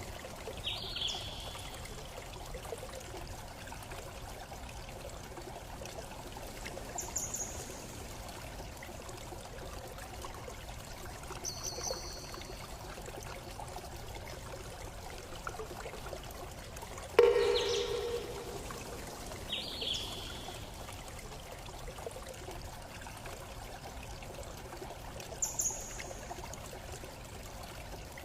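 Steady flowing stream or trickling water ambience with about six short bird chirps, one louder call about 17 seconds in.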